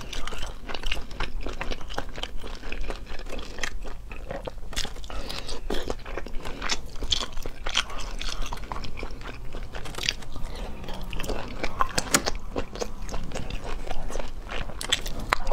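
Close-miked wet chewing and biting of cooked sea snails (cat's-eye snails), with many small, irregular clicks and smacks as the meat is pulled from the shells and eaten.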